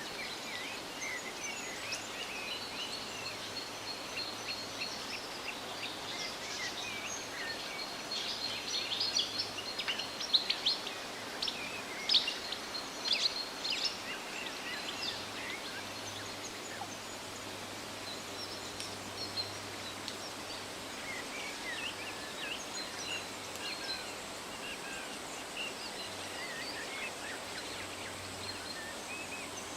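Songbirds chirping and calling over a steady rustle of wind through leaves. A busier, louder run of rapid chirps comes from about a quarter to halfway through.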